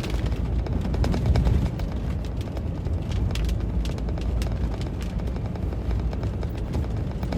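Heavy rain pelting a moving car's roof and windshield in irregular ticks, over a steady low rumble of road and wind noise inside the cabin.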